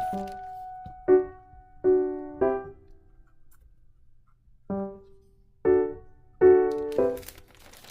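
Background piano music: soft struck notes and chords that ring and fade, with a pause of about a second and a half midway.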